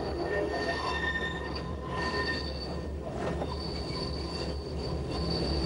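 Metre-gauge Appenzeller Bahn train's wheels squealing against the rails on its rack-assisted descent: thin high squeals that come and go over a steady low running rumble.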